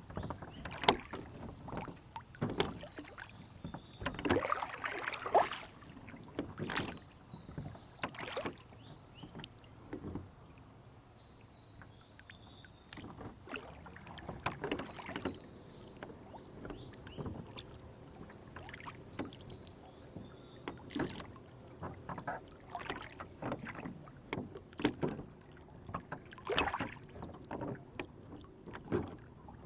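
Rowboat on lake water: irregular small splashes, water slaps and knocks against the hull every second or two, busiest about four seconds in.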